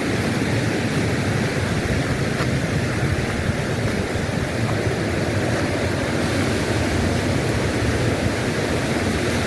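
Steady rushing of flowing stream water, with an unsteady low rumble of wind on the microphone.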